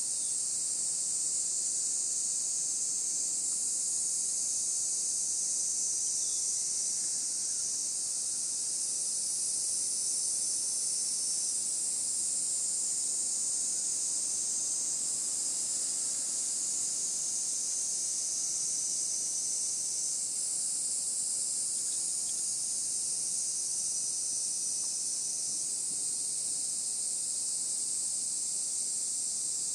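Dense chorus of insects: a steady, high-pitched shrill drone made of several overlapping voices, some of which drop in or out every few seconds.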